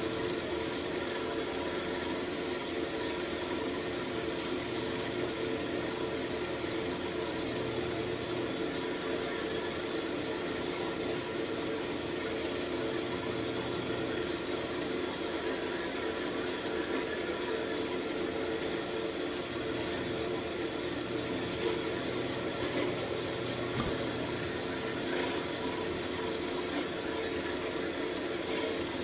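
Wood lathe motor running at a steady speed, with a constant hum, while a denim cloth is pressed against the spinning walnut wand to burnish its hot wax finish.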